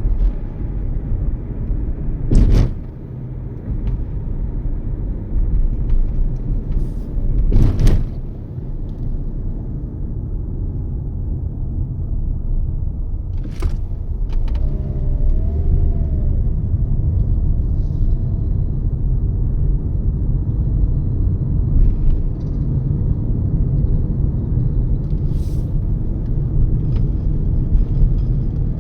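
Toyota Yaris on the move: steady low engine and road rumble, with three sharp knocks at about 2.5, 8 and 14 seconds.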